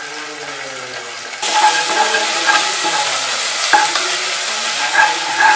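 Chopped onion, tomato and curry leaves sizzling in hot oil in a nonstick pot, stirred and scraped with a wooden spatula. It starts quieter and gets suddenly louder about a second and a half in, with a few light knocks of the spatula against the pan.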